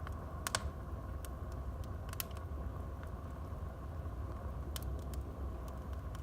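Wood fire burning in a fireplace: a steady low rumble and hiss of the flames with sharp crackles and pops from the burning logs, the loudest about half a second in and again about two seconds in, and a few more near the end.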